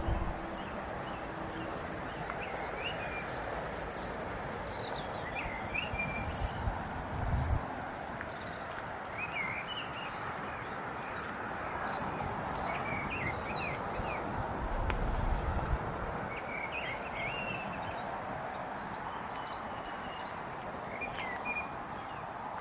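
Small songbirds chirping and twittering in short, scattered calls over a steady background hiss of outdoor noise. Two brief low rumbles come in partway through.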